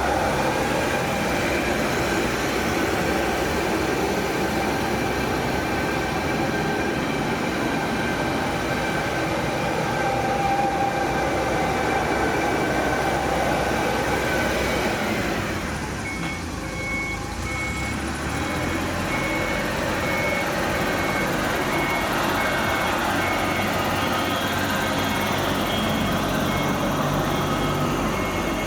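Four-wheel-drive rough-terrain forklift loader's engine running steadily. From a little past halfway, a high beeping alarm pulses over it, typical of a reversing alarm.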